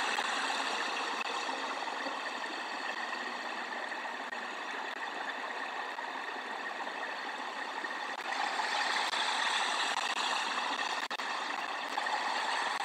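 Steady rain hiss on the nest camera's microphone, growing a little louder about two thirds of the way through.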